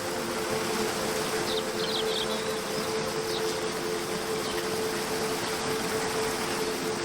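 Steady rush of a waterfall under soft background music holding long low notes, with a few short bird chirps about one and a half and three seconds in.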